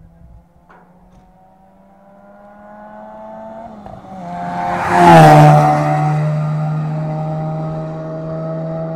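Lotus Exige approaching at speed, its engine note growing louder, then passing close by about five seconds in with a sudden drop in pitch and pulling away, the engine holding a steady note as it fades.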